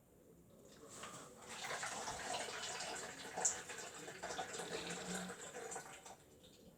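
Water running into a Miele W1 toy washing machine, a steady splashing hiss that starts about a second in and dies away near the end.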